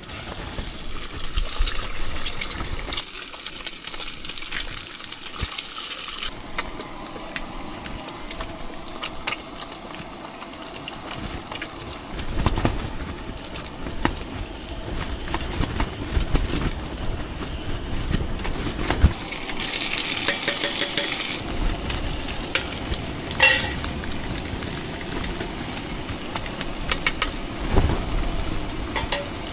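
Eggs frying in smoking-hot oil in a pan on a gas stove. The sizzle is strongest for the first few seconds and flares again about twenty seconds in, with a spatula stirring and knocking in the pan. A low rumble of wind buffets the microphone through the middle.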